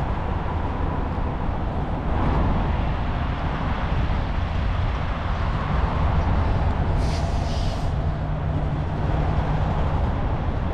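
Steady low rumble of a vehicle engine running, with a short hiss about seven seconds in.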